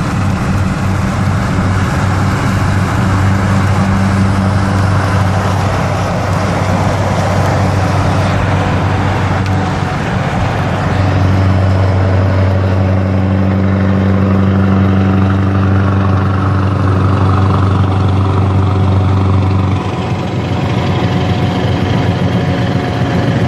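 Scania 164L 480's V8 diesel engine running at a steady speed through an open exhaust pipe, with a deep, even drone. It gets slightly louder about halfway through and dips briefly near the end.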